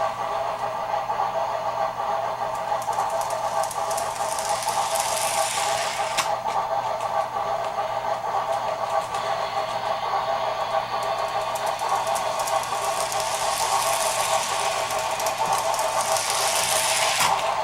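HO scale Shay model locomotive running, its LokSound 5 sound decoder playing steam-engine sounds over a steady mechanical clatter. Hiss swells up a few times, and there are a couple of sharp clicks.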